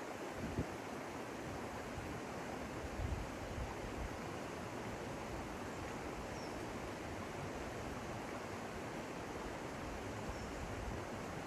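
Steady rushing of a river flowing over rocks, an even, unchanging wash of water noise.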